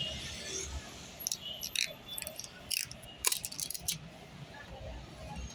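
A few sharp plastic clicks and rattles, spaced irregularly, from a front-load washing machine's detergent drawer being handled.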